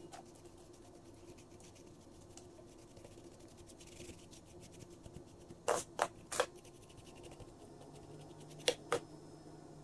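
A hand brush sweeping loose casting sand off a pattern and the packed sand of a mould flask: faint steady scratching, with a few sharp, quick brush strokes, three together around the middle and two near the end.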